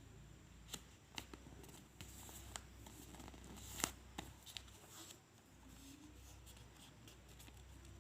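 A sheet of A4 paper being handled and folded: scattered soft rustles and crisp clicks of creasing, with the sharpest snap a little under four seconds in.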